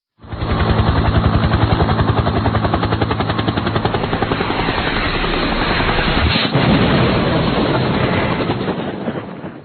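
Helicopter rotor beating in a rapid, even rhythm, loud throughout, with one sharp crack about six and a half seconds in; it starts and cuts off abruptly.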